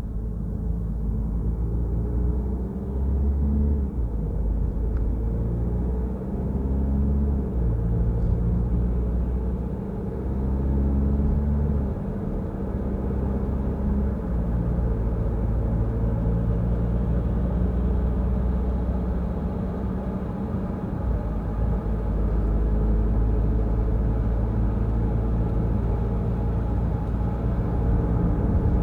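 Peugeot Rifter driving on the road: a steady low rumble of engine and road noise, the engine's tone shifting in pitch over the first dozen seconds and then holding fairly even.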